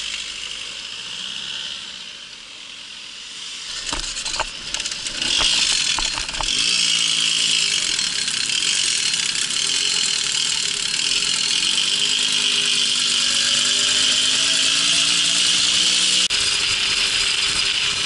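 Babetta moped's small two-stroke engine running under way, picking up and getting louder about five seconds in, its pitch rising and falling with the throttle. A few sharp knocks come just before it picks up.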